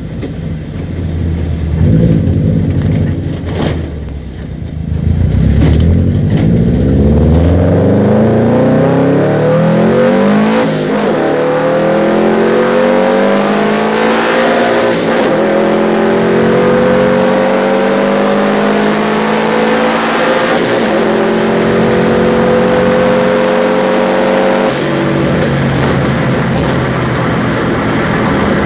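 Subaru 2.2 turbo flat-four engine in a Mk2 Ford Fiesta pulling under acceleration, its pitch climbing steadily for a long stretch. Near the end the pitch drops and starts climbing again, as at a gear change.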